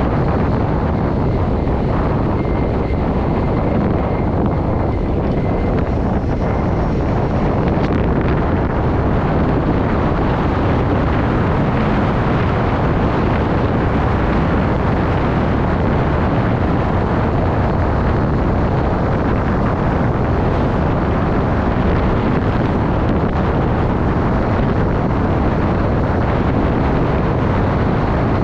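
Steady, loud wind rush buffeting the microphone of a moving bike, with no let-up.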